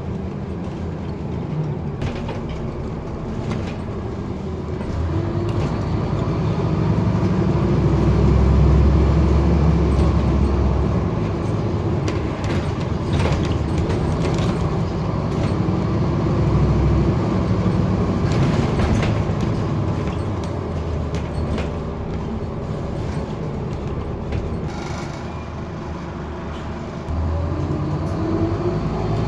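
Scania N230UD's diesel engine and ZF automatic gearbox heard from inside the bus, the revs climbing high over several seconds and falling back as it accelerates, with body rattles over the top. The engine runs up to the redline because the ZF gearbox is slipping.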